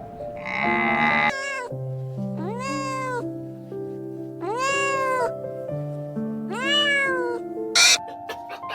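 Domestic cat meowing: a rough cry, then three drawn-out meows about two seconds apart, each rising and then falling in pitch, over background music with held notes. A short sharp noise comes near the end.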